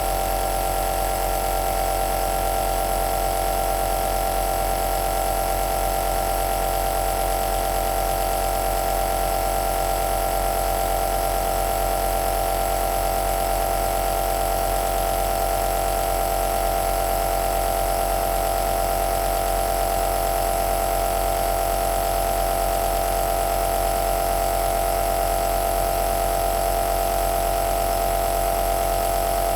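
Compressor nebulizer running steadily: an even motor hum with a steady whine and a hiss of air through the nebulizer.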